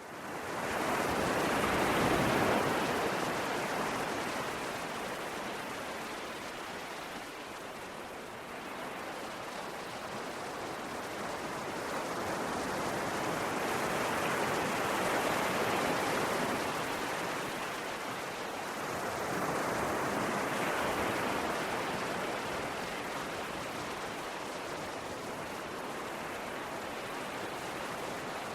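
Ocean waves breaking and washing in, a steady rush of surf that swells and ebbs slowly. It rises in at the start and surges strongest about two seconds in, again near the middle, and once more about two-thirds through.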